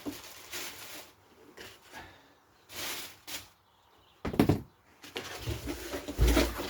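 Scattered handling noises as things are packed into a box and moved about: rustles and knocks, a louder clatter about four seconds in, and a heavy low thump near the end.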